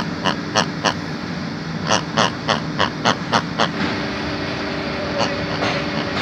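A passenger train rolling through a station: its wheels clack sharply over rail joints, about three times a second, in two runs that stop about two-thirds of the way through. A steady hum runs underneath.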